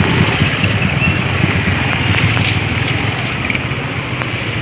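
Engine and road noise of a moving vehicle: a low pulsing engine rumble under a steady rush of wind and tyre noise, easing off slightly as it goes.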